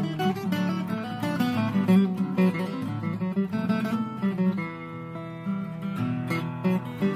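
Acoustic guitar playing a run of chords, strummed and plucked, with no break.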